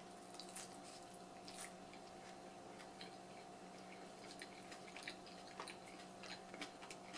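Faint wet chewing and small mouth clicks of a person eating a slice of pizza, over a steady low hum.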